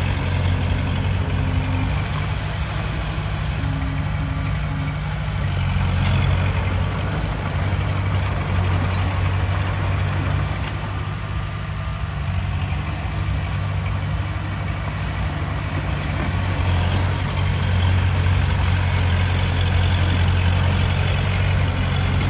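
Heavy diesel engine of earthmoving machinery running steadily: a deep, continuous drone that swells and eases slightly, with a few faint ticks over it.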